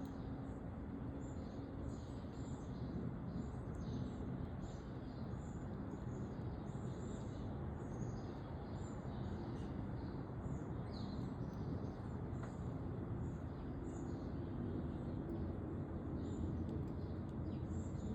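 Small backyard birds chirping, many short high notes scattered throughout, over a steady low background rumble.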